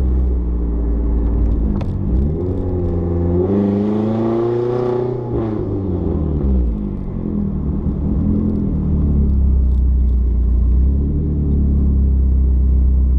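Engine of a turbocharged Hyundai Sonata running on an eBay turbo kit, rising in revs for a few seconds to a peak with a rushing hiss, then falling back to a steady low rumble. The engine is untuned and running rough.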